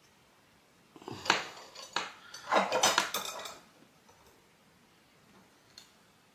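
Small metal parts clinking and clattering as they are handled, a cluster of sharp knocks and rattles between about one and three and a half seconds in.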